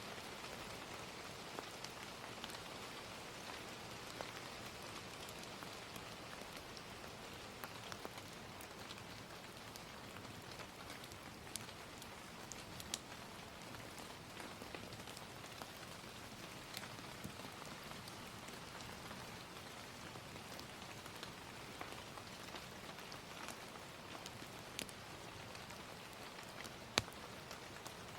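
Steady gentle rain, with occasional sharp crackles and pops from a wood fire scattered through it.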